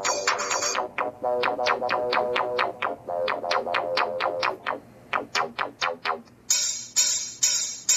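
Electronic music with a plucked synth riff played through the Sony Xperia Z2's loudspeaker. It thins to a few sparse notes in the middle, and the full beat comes back in about six and a half seconds in.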